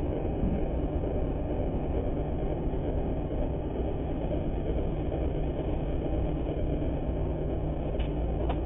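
Steady low rumble of a heavy vehicle or machine running, with a couple of faint clicks near the end.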